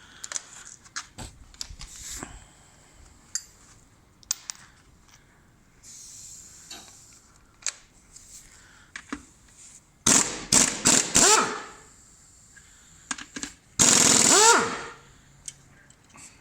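Impact wrench zipping off connecting-rod cap nuts in two loud rattling bursts, one about two-thirds of the way in and a second near the end. Light metal clicks and knocks of tools and parts come before them.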